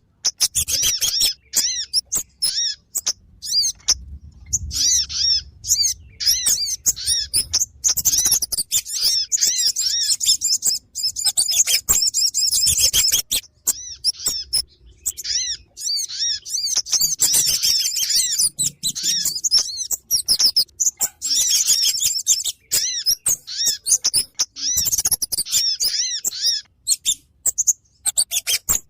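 Lure recording of Kemade and Sogon birds calling: dense, rapid, high-pitched chirps and twitters that come in bouts with short pauses between them.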